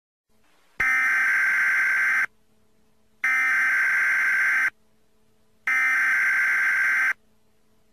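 Emergency Alert System header tones: three identical bursts of harsh electronic data warble, each about a second and a half long with a second's pause between them, which open a broadcast storm warning.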